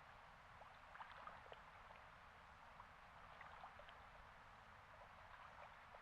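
Near silence: faint steady hiss with scattered small ticks and clicks.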